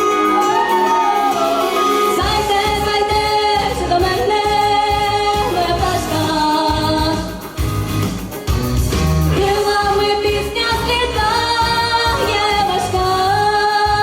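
Female vocalist singing over a pop backing track; the bass and beat come in about two seconds in.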